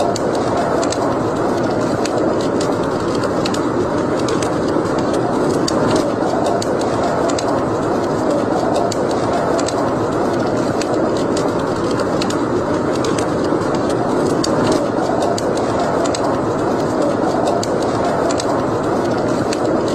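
Wood fire burning in a fireplace: a steady rushing noise with frequent small, irregular crackles and pops.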